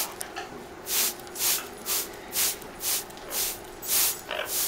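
Hand-pump spray bottle misting a parrot: a quick series of short hissing sprays, about two a second, roughly eight or nine in all.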